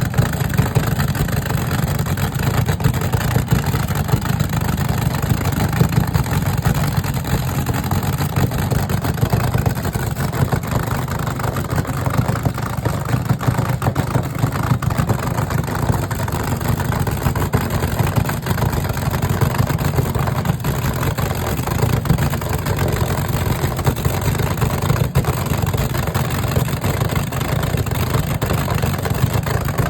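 A vehicle engine running steadily, a low rumble that holds even.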